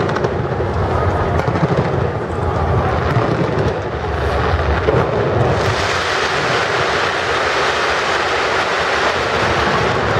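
Dense fireworks going off directly overhead from the skyscraper's sides, the bursts merging into one continuous rumble. About halfway through, a brighter steady crackling hiss rises over the rumble and holds.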